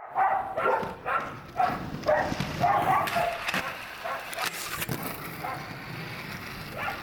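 A dog yipping: a run of short yips over the first few seconds, then quieter.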